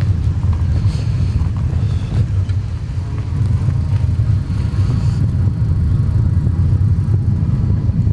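Low, steady rumble of wind buffeting the microphone, with the tyres rolling, while riding a bike.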